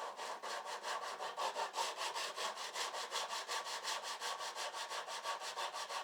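Coarse sandpaper, around 100 to 120 grit, wrapped around a holder and rubbed by hand over the cut end of a garage door in quick, even back-and-forth strokes.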